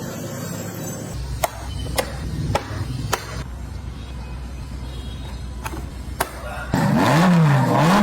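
A low steady hum broken by several sharp clicks, then, near the end, an engine revving loudly, its pitch rising and falling twice.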